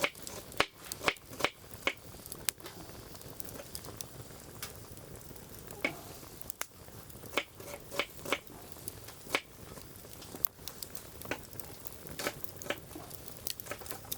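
Firewood burning in a fire-pit grill, crackling with irregular sharp pops and snaps over a low steady hiss.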